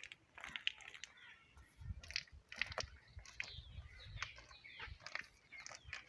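Cattle munching fodder: an irregular scatter of short crunching clicks, with faint bird chirps.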